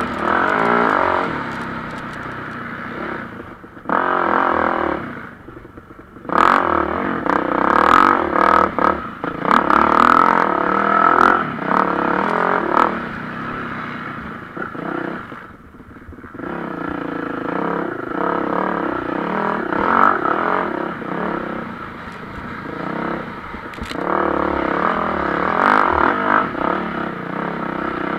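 MX1-class motocross bikes racing past, engines revving hard and dropping off with gear changes, the noise swelling and fading as riders come through, quieter around 5 s and again around 16 s.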